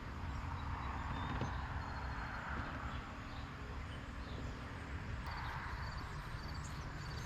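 A heavy kayak being wheeled over rough ground, giving a continuous rumbling clatter from the wheel and hull. Birds chirp faintly over it.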